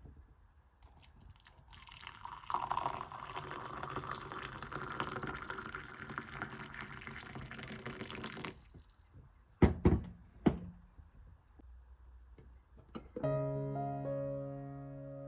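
Water running or pouring for about six seconds, then cutting off, followed by two sharp knocks. Soft piano music comes in near the end.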